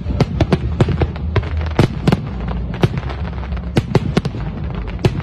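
Aerial fireworks shells bursting in a rapid, irregular run of sharp bangs and crackles, a dozen or so in a few seconds, over a steady low rumble.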